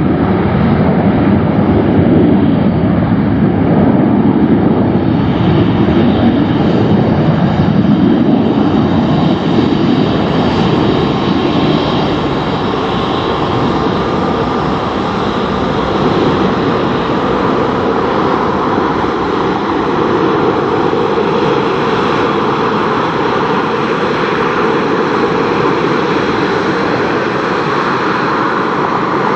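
Jet airliner engines at takeoff power: a loud, continuous jet roar with a whining tone, easing a little after about ten seconds.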